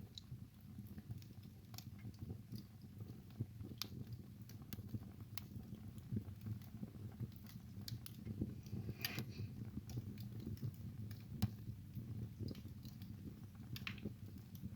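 Wood burning in a fireplace: a low steady rumble of flame with scattered sharp crackles and pops, and a louder pop with a short hiss about nine seconds in.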